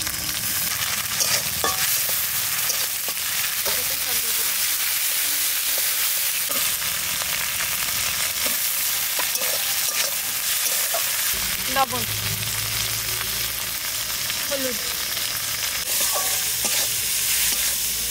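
Onions, ginger-garlic-chilli paste and chopped tomatoes sizzling in hot oil in a metal kadai, with a metal spatula stirring and scraping against the pan in short clicks.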